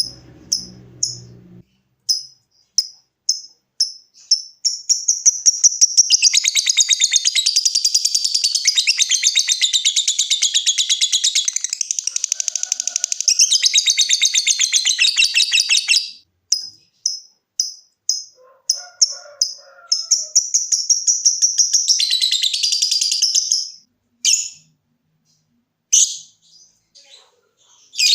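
Lovebird singing: sharp separate ticking chirps ('ngetik') that speed up into a long, very rapid chattering trill ('ngekek') lasting about eleven seconds, then single ticks again and a second, shorter trill near the end.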